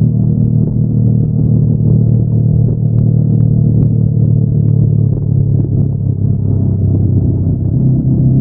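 Honda NX500's 471 cc parallel-twin engine running through its stock exhaust, holding steady revs with a deep, even note while the motorcycle is ridden.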